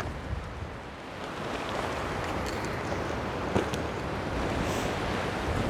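Strong wind gusting and rumbling on a clip-on wireless microphone, getting a little louder after about a second, with a few faint clicks.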